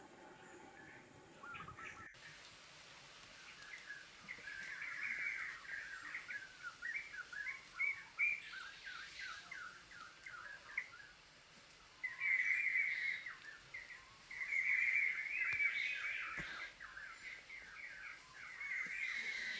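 Small birds chirping and twittering in quick runs of short notes, busiest at about twelve and fifteen seconds in and again near the end, over a faint steady outdoor hiss.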